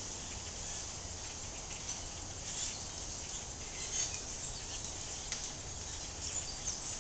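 A large flock of blackbirds in the trees, many birds chattering at once in a dense, steady mass of short, high squeaks and chirps.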